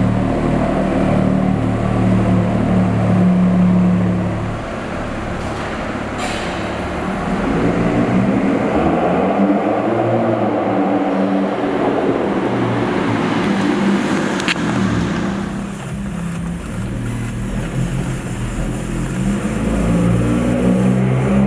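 BMW 335i's turbocharged 3.0-litre inline-six running through an AWE Tuning cat-back exhaust and performance midpipe, its note rising and falling as the engine speeds up and eases off, with a sharp click about two-thirds of the way through.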